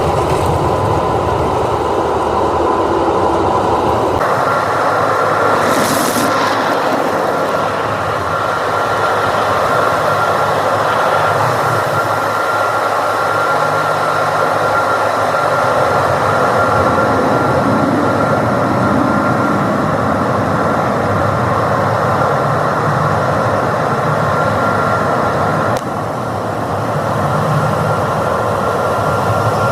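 Automatic tunnel car wash machinery heard from inside the car: a loud, steady rush of spraying and equipment noise with a steady high whine. The whine comes in about four seconds in and drops away near the end as the sound changes.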